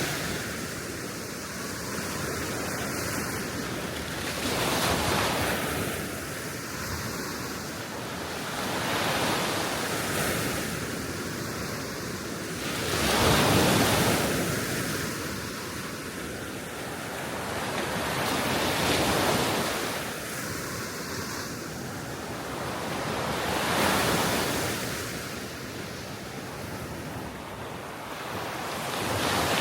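Small waves breaking and washing on the shore, a swell every four to five seconds with the biggest about halfway through, under a steady wind.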